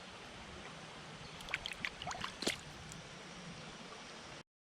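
River water running steadily, with a few short splashy clicks between about a second and a half and two and a half seconds in. The sound cuts off suddenly near the end.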